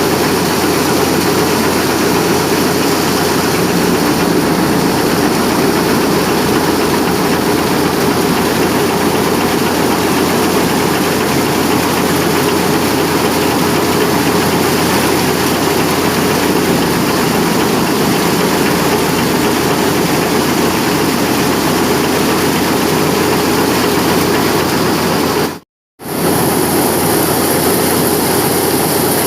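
Tractor-powered wheat thresher running steadily, a loud, dense mechanical din of the tractor engine and the threshing drum. It cuts out to silence for a fraction of a second near the end, then carries on.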